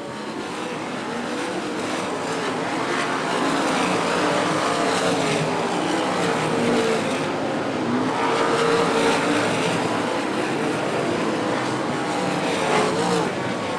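A field of winged sprint cars racing at speed on a dirt oval, several engines running hard at once with their pitches rising and falling. The sound builds to its loudest about midway as the pack goes by.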